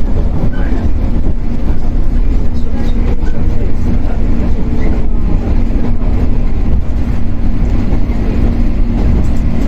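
Shinano Railway 115 series electric train running, heard inside motor car KuMoHa 115-1013: a steady, loud rumble of wheels and bogies on the rails with a constant low hum.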